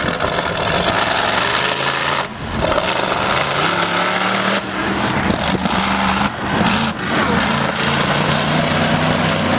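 Loud motor vehicle engine running and revving, its pitch climbing and falling back several times.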